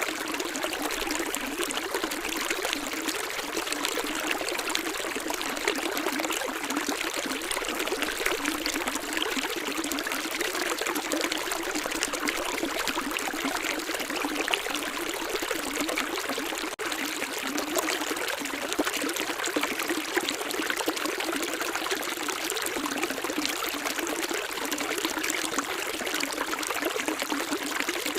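Water running steadily in a small stream, trickling and splashing without let-up; light and hissy, with little deep rumble.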